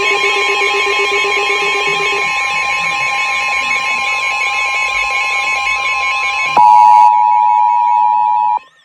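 Several emergency alert tones sounding at once, steady and warbling alarm tones overlapping: a tornado warning arriving on more than one device. About six and a half seconds in there is a short loud burst, then a single louder steady alert tone that cuts off just before the end.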